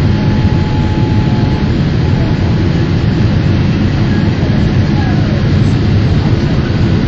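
Steady cabin noise of a Boeing 787 Dreamliner in flight after takeoff: a constant low rumble of engines and rushing air, with no changes.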